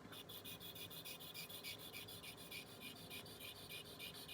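Water-wetted sharpening stone rubbed up and down against the blade of a posterior sickle scaler, a dental instrument: a faint, quick, even scraping of about five strokes a second that starts right at the beginning.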